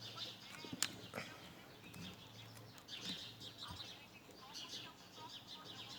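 Many small birds chirping and calling at once, in short high notes that overlap and keep coming. A sharp click sounds about a second in.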